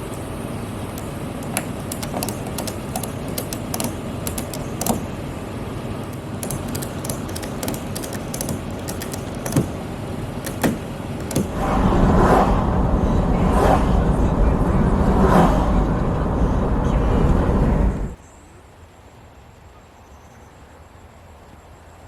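Vehicle driving with a steady rumble and scattered clicks and knocks, growing louder for the last several seconds, then cutting off abruptly to a quiet background.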